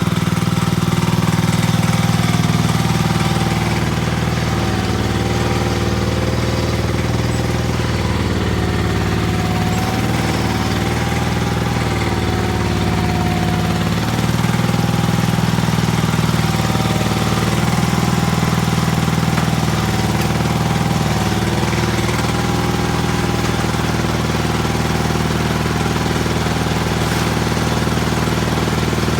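Gravely tractor's Briggs & Stratton engine running steadily, with a slight waver in pitch.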